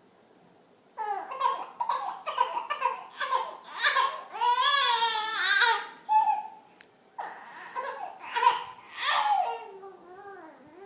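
A five-month-old baby babbling and squealing, with a long wavering high-pitched squeal in the middle, between short bursts of babble.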